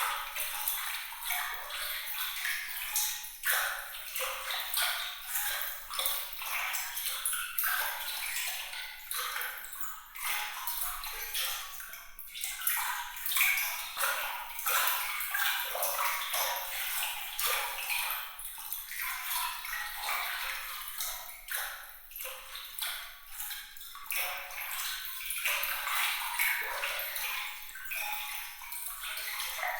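Water trickling and splashing in a bright, continuous patter of many small droplet sounds, high-pitched with almost no low rumble.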